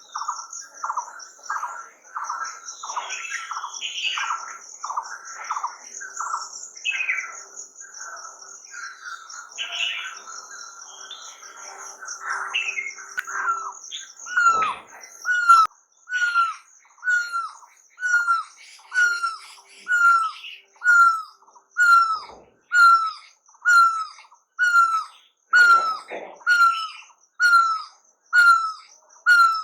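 Wild birds singing: several birds chirp over a high, steady trill for the first half, then from about halfway one bird repeats a short, falling call about once a second.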